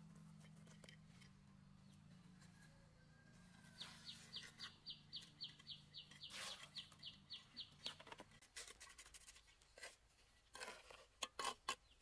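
A bird calls a rapid run of short, high, evenly spaced notes, about four a second, for roughly four seconds. After it come sharp clicks and knocks, a quick cluster of them loudest shortly before the end.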